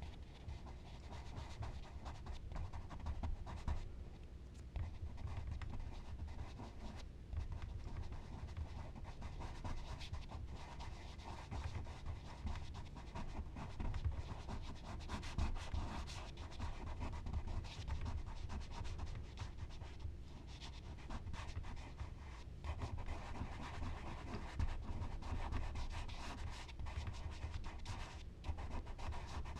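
Charcoal and blending tools scratching and rubbing across smooth Bristol paper in an uneven run of short strokes.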